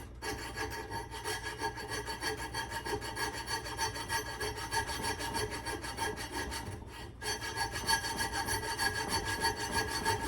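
Sandpaper rubbed by hand over a rusty steel axe head in quick back-and-forth strokes, with a brief pause about seven seconds in.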